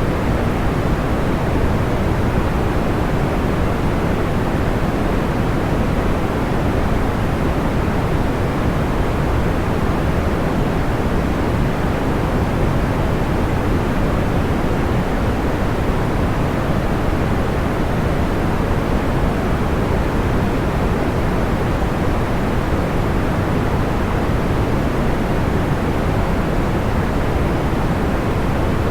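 Steady sleep-aid noise, soft and full in the low end and dull on top, like pink or brown noise, holding an even level with no distinct crackles or pops.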